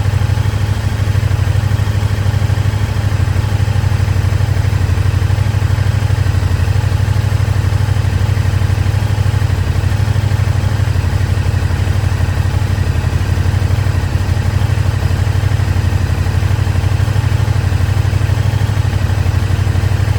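KTM 1290 Super Duke R's V-twin engine idling steadily, with no revving.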